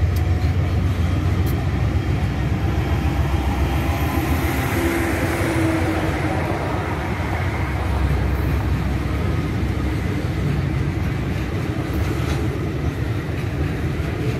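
Freight train of tank cars rolling past close by: a steady rumble of steel wheels on the rails, with a few sharp clicks.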